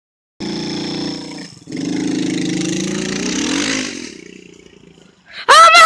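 Small dirt bike's engine running and revving as it rides, then dropping in pitch and fading away after about three seconds. A loud shout comes in at the very end.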